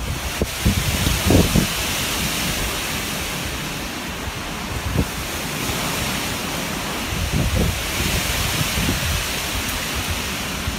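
Steady loud rushing outdoor noise with irregular gusts of wind buffeting the microphone, heaviest about a second in and again around seven to nine seconds.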